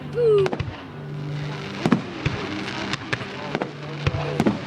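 Fireworks going off: a series of sharp bangs over a steady crackling hiss, with the loudest bangs about two seconds in and again near the end.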